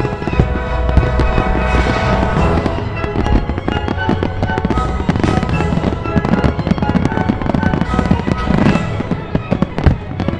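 Fireworks display, with aerial shells bursting in a steady run of sharp bangs and crackles over music playing throughout.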